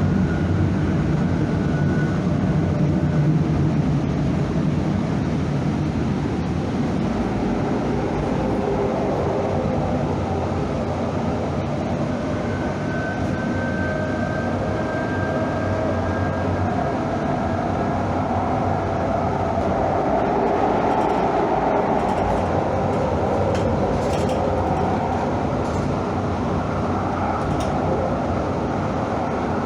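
Train running along the track: a steady rumble with a faint motor whine that slowly rises in pitch partway through.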